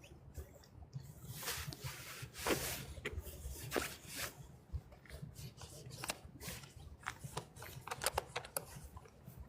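Dry fallen leaves crunching and rustling in irregular crackles, with a quick run of sharp crackles in the last few seconds.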